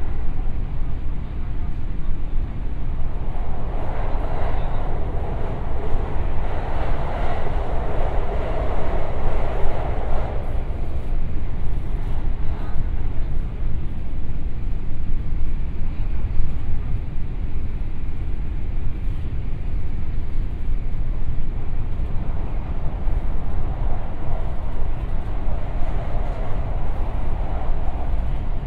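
Interior running noise of a JR 521-series electric multiple unit travelling through a long tunnel: a steady low rumble of wheels on rail. A louder roar swells for several seconds about three seconds in, and again near the end.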